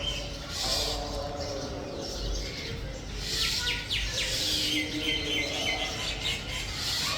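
Oriental magpie-robin singing a varied series of whistled and chirped phrases, including a quick run of short descending notes about three and a half seconds in.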